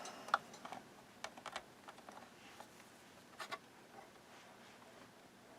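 A few sharp, scattered clicks and taps, one close pair about halfway through, as controls and leads are handled on the bench while a 6-volt bench power supply is hooked up to a small transistor radio.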